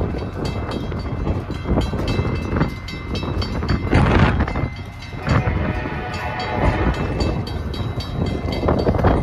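Train moving on the rails, with steady running noise, rapid repeating clicks and two louder swells about four and five seconds in.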